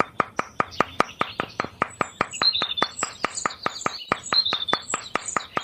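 Rapid, evenly spaced clicking, about five to six clicks a second, with birds chirping over it in the second half.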